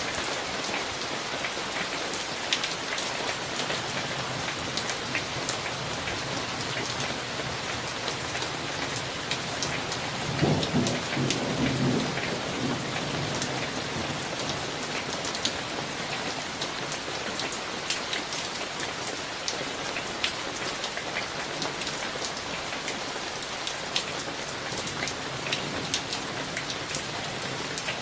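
Summer thunderstorm: steady rain with many close drops ticking. A roll of thunder rumbles low about ten seconds in and dies away over roughly three seconds.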